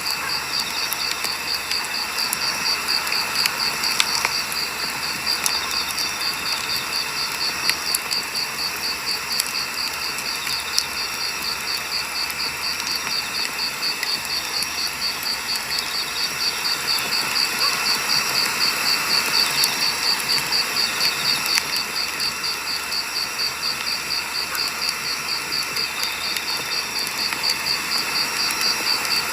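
Burning firewood crackling steadily, with a few sharper pops, over a high, evenly pulsing chirp.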